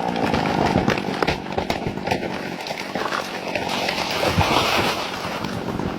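A falling tree crashing down through branches: a rapid, irregular run of cracks and snaps over a steady rushing noise.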